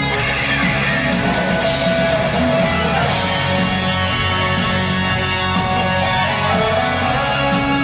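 Live concert music: a rock band's guitars playing with a symphony orchestra, the guitar to the fore.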